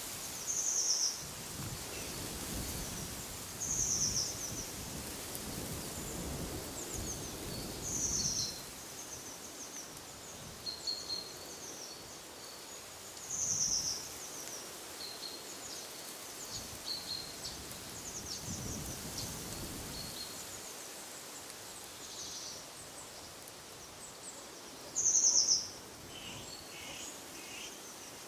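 Wild songbirds calling: one bird repeats a short, high call every few seconds while smaller chirps go on between. Wind rustles steadily, with low gusts on the microphone in the first third and again about two thirds of the way in.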